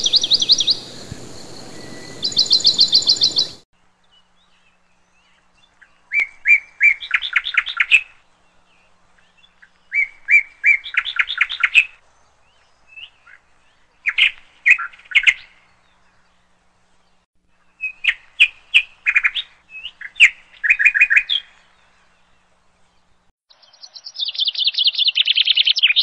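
A small songbird singing: short phrases of rapid chirps, each about two seconds long, repeated roughly every four seconds with silence between, ending in a denser, higher run of chirps.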